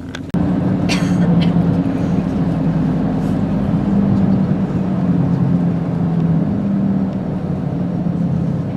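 Commuter train running, heard from inside the carriage: a steady drone and rumble with a held low hum from the motors. It starts abruptly just after the opening, and there are a few faint clicks about a second in.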